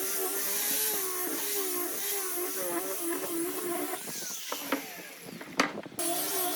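Electric power tool motor running while working wood, its pitch wavering under load. It stops about four seconds in, and a few sharp knocks and clicks follow.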